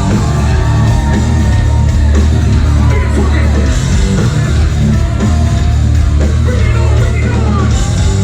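A live ragga-metal band playing loud, with heavy bass and drums, and a voice yelling over the music.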